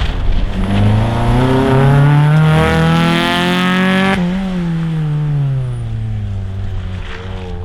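Rally car at full throttle, its engine note climbing steadily with a couple of brief steps that fit gear changes. About four seconds in the pitch drops sharply as the car passes, and the engine note runs on lower and fades as it drives away.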